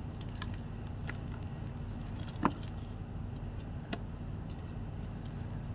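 White gym chalk being crunched: scattered small crackles, with one sharp, loud crunch about two and a half seconds in and a smaller one near four seconds, over a steady low background rumble.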